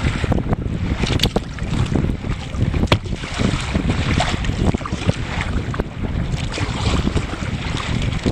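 Wind buffeting the microphone over water splashing and slapping against the hull of a Necky kayak under sail. The sound is steady and heaviest at the low end, with many small splashes scattered through it.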